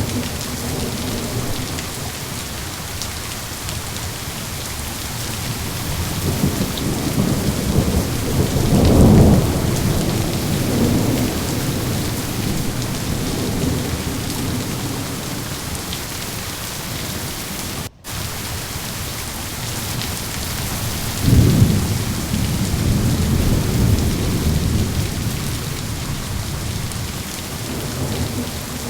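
Steady rain with rolling thunder: low rumbles swell and fade, with two louder claps, about a third and two-thirds of the way through. The sound drops out for a split second just past the middle.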